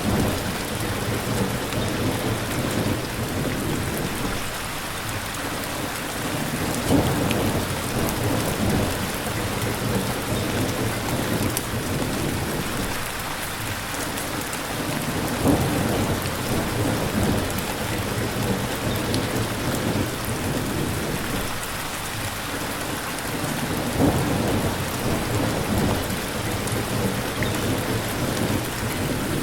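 Steady rain falling, with low thunder rumbling underneath that swells up three times, about every eight seconds.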